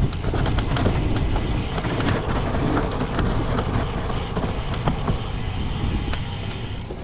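Wind rushing over the microphone of a cyclocross bike ridden at race pace, with the bike rattling and knocking over rough, bumpy ground.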